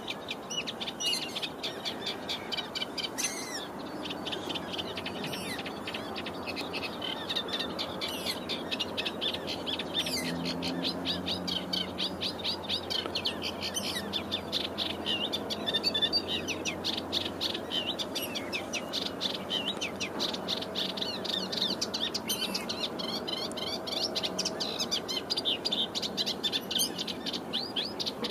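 Reed warbler (kerak basi) singing a long, unbroken song of rapid, quickly repeated chattering notes.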